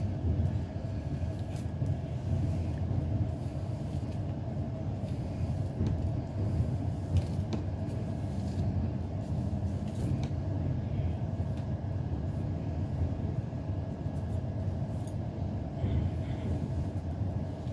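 Passenger train running over a steel truss railway bridge: a steady low rumble of wheels on rails, with a few sharp clicks scattered through it.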